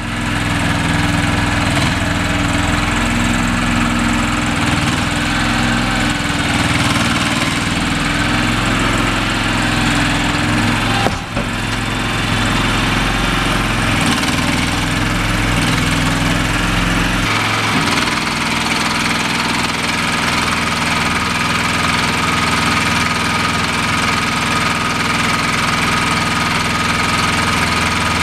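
Engine of a Shed Buggy remote-controlled shed mover running steadily while it maneuvers a shed. About two-thirds of the way through, the deep rumble drops and a steady higher whine comes in.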